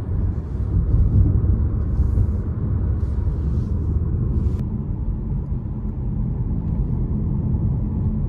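Car driving, heard from inside: a steady low rumble of road and engine noise.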